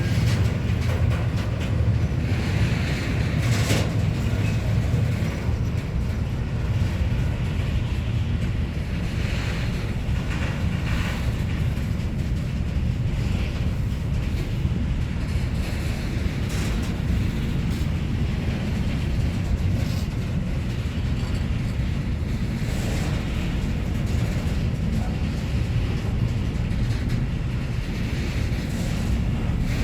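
Train passing on the line, a steady rumble of wheels on rails that holds at an even level throughout.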